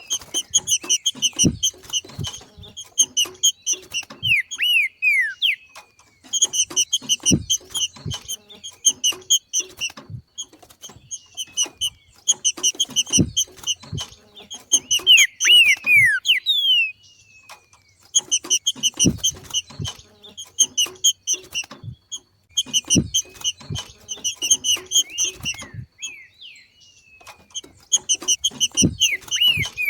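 Green-winged saltator (trinca-ferro) giving its 'macheado' call: bouts of rapid, repeated chirping notes, several ending in quick downward-sliding whistles, separated by short pauses. Soft low thumps fall between the notes.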